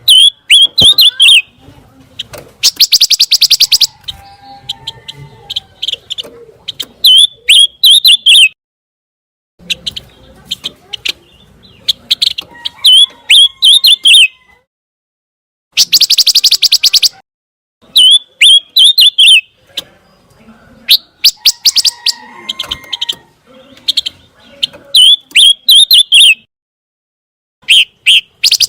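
Pancawarna bird song: phrases of sharp, bending chirps and, in some phrases, a fast rattling trill. The phrases repeat every few seconds with short silent gaps between them. This is a clean recording of the kind played to captive songbirds for them to copy.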